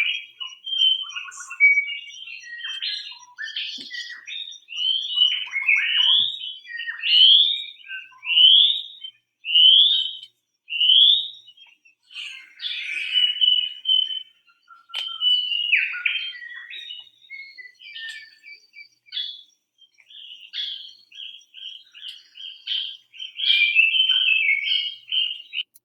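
Several birds chirping and calling in quick, overlapping notes, with a run of rising whistled notes, about one a second, partway through.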